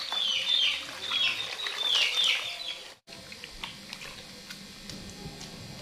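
A bird calls over and over in short, falling chirps, about one every two-thirds of a second. The chirps stop abruptly about three seconds in. After that come faint splashes and clicks of hands scrubbing a pig's head in a basin of water.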